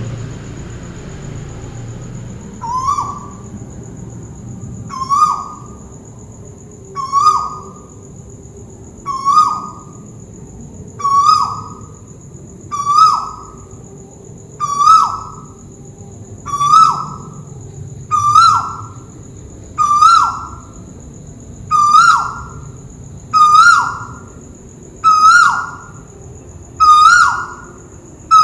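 Bird known locally as the Malaysian tuwu calling overhead: a whistled note that slides down in pitch, repeated about every two seconds and growing louder.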